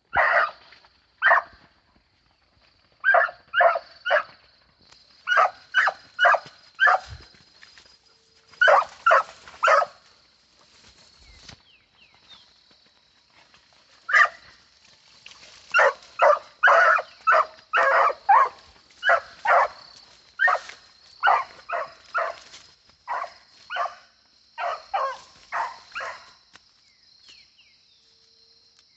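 Puppy barking repeatedly in quick runs of two to five barks, with short pauses between runs. It is a young hunting dog in training, barking at a preá (cavy) as its quarry.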